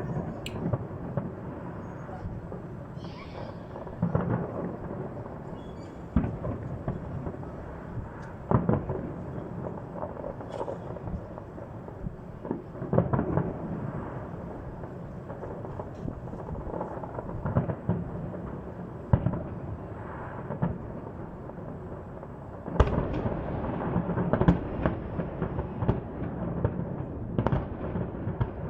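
Fireworks display: shells bursting in loud bangs every few seconds over a constant low rumble, with a quick run of bursts close together near the end.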